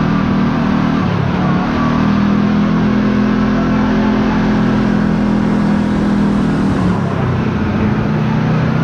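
Can-Am Maverick X3 side-by-side's engine running while driving, the note stepping up about a second in and dropping back near the end, with road noise underneath.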